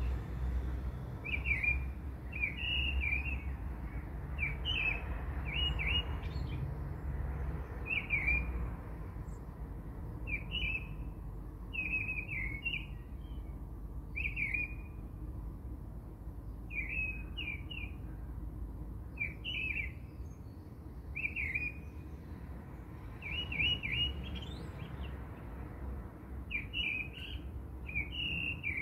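Small bird chirping in short, quick phrases, roughly one a second, over a low steady rumble.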